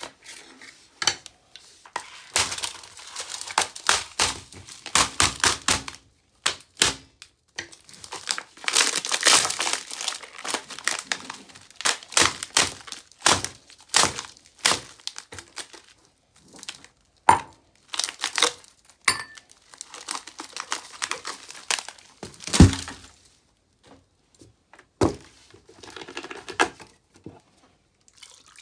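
Irregular crinkling and crackling in dense clusters with short pauses, and one heavier knock about three-quarters of the way through.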